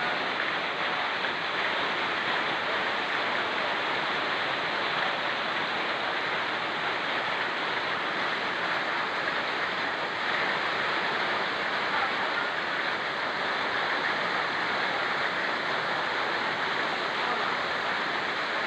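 Fast-flowing mountain river rushing steadily, mixed with falling rain.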